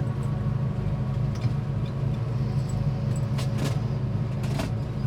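The 1969 Chevelle's fuel-injected 383 stroker V8 running steadily through Magnaflow mufflers at an even engine speed, heard from inside the cabin as a low, constant hum.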